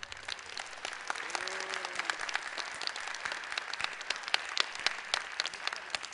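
Audience applauding, a dense spread of many hands clapping.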